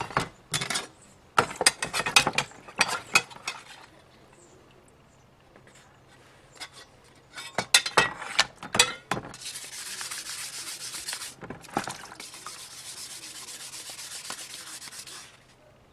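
Sandpaper rubbed by hand over the aluminum cover of a sewing machine: two bouts of quick, uneven scraping strokes, then a steadier stretch of even rubbing.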